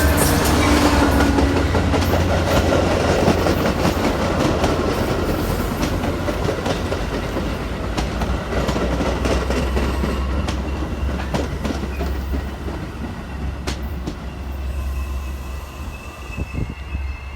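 Metra commuter train rolling past: a steady low rumble from the locomotive with wheels clacking over rail joints, slowly fading over the last few seconds.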